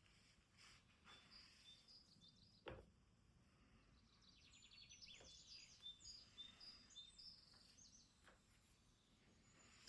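Faint birdsong: short high chirps and a rapid trill from small birds. A few soft clicks or taps sound among them, the sharpest about three seconds in.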